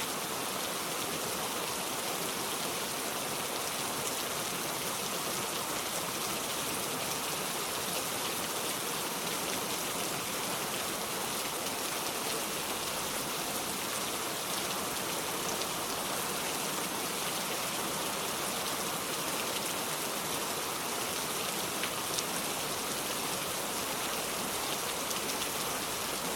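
Steady rain, an even patter with a few faint drop ticks.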